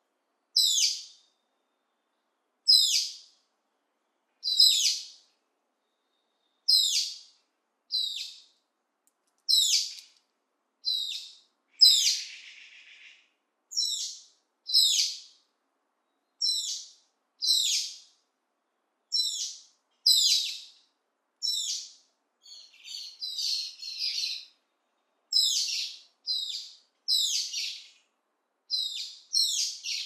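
A bird calling again and again with short, high notes that drop quickly in pitch, about one every second or two and often in pairs. About halfway through, a rougher call trails after one of the notes. Later, a jumble of quicker chirps fills a couple of seconds.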